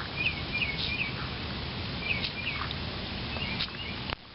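Primer bulb on a two-stroke hedge trimmer's carburettor being pressed several times, a few short soft clicks, with small birds chirping repeatedly outdoors.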